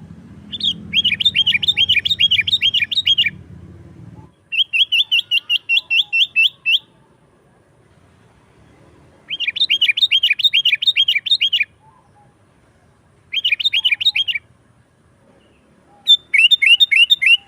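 Sooty-headed bulbul (kutilang) singing hard in five bursts of rapid, repeated, downward-sweeping notes, each burst one to three seconds long with short pauses between. A low rumble sits under the first four seconds.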